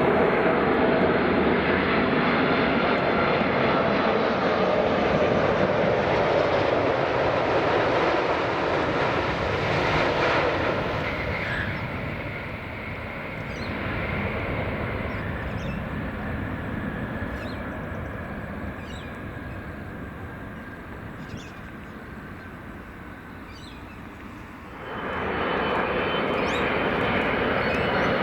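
A jet airliner's turbofan engines passing close with a loud, steady rush that fades away over about fifteen seconds. Near the end the jet noise returns abruptly at full strength.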